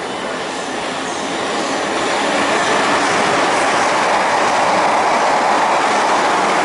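Class 444 electric multiple unit passing at speed: a steady roar of wheels on rails that swells over the first few seconds and then holds.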